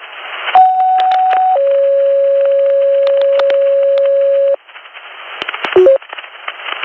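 Fire dispatch two-tone page heard over a radio scanner. A higher steady tone for about a second is followed by a lower steady tone for about three seconds, then it cuts off to radio hiss. Two short beeps come near the end. The tones alert the fire station to a call.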